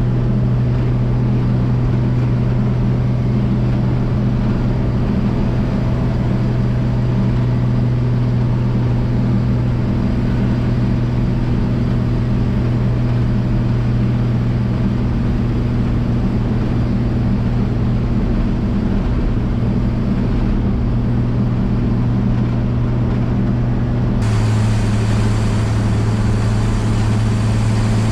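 1965 Chevrolet C10's inline-six engine droning steadily at cruise, with road and tyre noise, heard from inside the cab. Near the end the sound shifts abruptly to a slightly lower engine note with more hiss.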